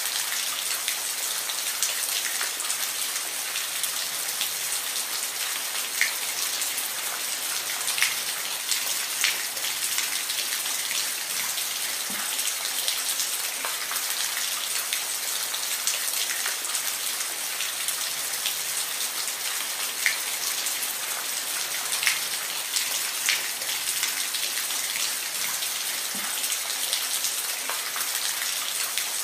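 Steady rain falling, an even hiss with individual drops ticking sharply on a surface, a few louder than the rest.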